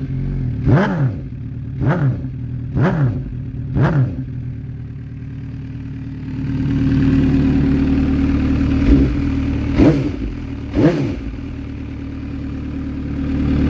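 MV Agusta F4 1000S inline-four running through a BODIS exhaust. It idles and is blipped with short throttle revs: four about a second apart at first, then after a few seconds of idle, three more.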